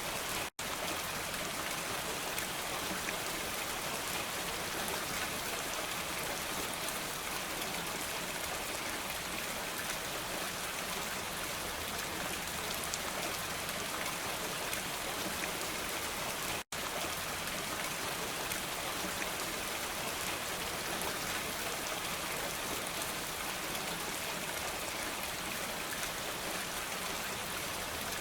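Steady rain falling, an even hiss of drops without a break in intensity. The sound cuts out for an instant twice, about half a second in and about two-thirds of the way through.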